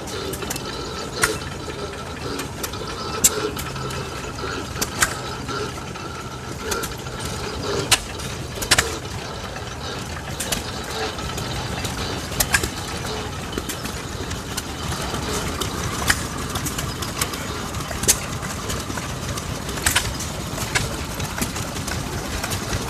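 Old stationary hit-and-miss gas engines running, with a sharp firing pop every second or two at uneven intervals over a steady mechanical clatter.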